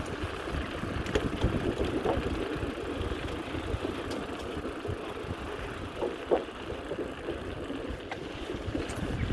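Wind buffeting the microphone of a camera riding on a moving bicycle: a steady rushing rumble, with a few faint clicks.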